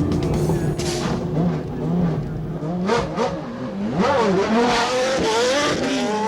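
Racing car engine revving, its pitch climbing and dropping again and again through gear changes, with more rapid swings in the second half.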